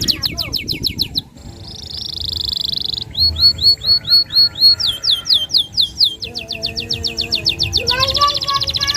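Domestic canary singing a long, continuous song of fast high trills and repeated sweeping chirps, switching to a new phrase every second or two.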